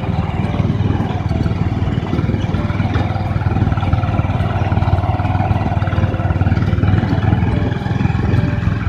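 Motorcycle engine running while the bike rides along, a loud steady rumble with no break.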